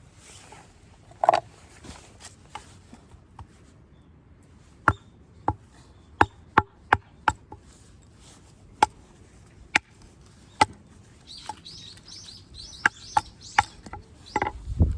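Firewood giving a dozen or so sharp, irregular cracks and knocks, spaced from a fraction of a second to a few seconds apart. A bird chirps in a quick run of short high notes about three-quarters of the way through.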